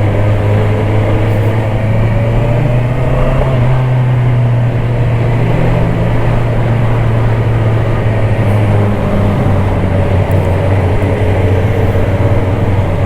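Honda CBR650R's inline-four engine running under way, its pitch rising and falling a little with the throttle, over rushing noise.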